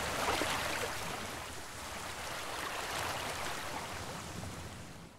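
Nature-sound ambience of running water, a steady rushing hiss like a stream, slowly fading out and dropping away near the end.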